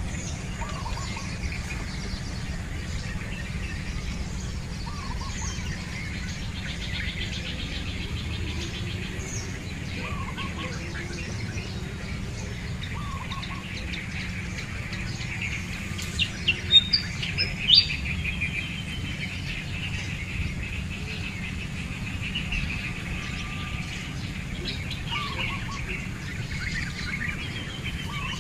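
Birds chirping, with many short calls scattered throughout and a few loud, sharp chirps a little past halfway. A steady low rumble runs underneath.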